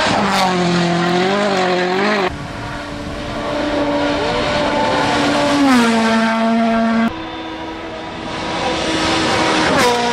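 Rally car engines running hard at high revs, the pitch rising and falling with throttle and gear changes, and dropping sharply near six seconds. The sound changes abruptly about two seconds in and again about seven seconds in, as between separately recorded passes.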